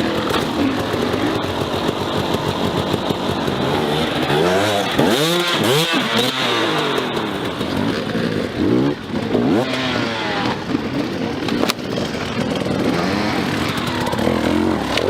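Dirt bike engines revving hard, their pitch repeatedly rising and falling as the bikes accelerate and shift, with the strongest sweeps about five and ten seconds in.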